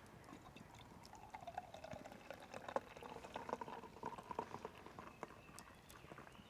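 Liquid being poured into a container, a gurgling pour with small splashy clicks that starts about a second in and fades out near the end.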